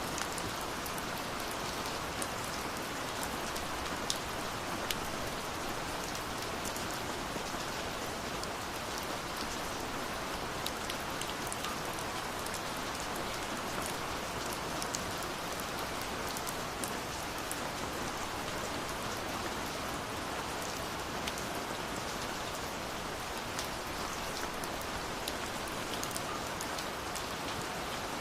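Steady rushing of a waterfall with scattered small pops and crackles of a wood fire layered over it.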